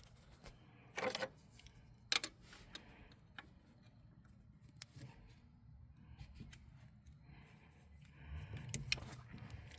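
Scattered sharp clicks and light clatter of hand work on a carburetor, as linkages and hoses are pulled off, over a low steady hum; a louder low rustle comes near the end.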